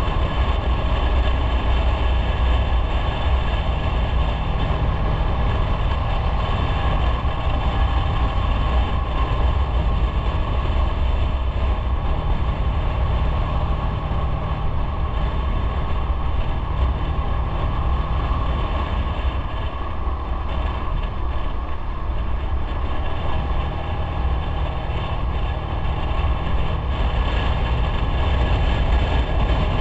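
Motorcycle running on the road while riding, a steady low rumble with road noise. It eases a little in the middle and picks up again near the end.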